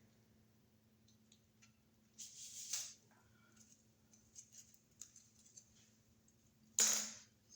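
Wire cutters snipping and working the old electrical wire tails: two louder crunching cuts, one about two seconds in and one near the end, with small clicks and rustles between.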